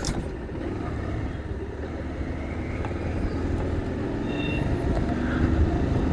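Motorcycle ride through city traffic: a steady low rumble of engine, road and wind on the microphone, slowly growing louder, with a few faint tones from other traffic.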